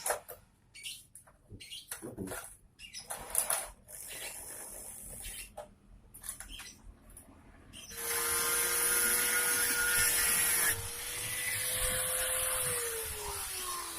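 Scattered short knocks and clicks, then a handheld electric power tool runs steadily for several seconds and winds down, its pitch falling near the end.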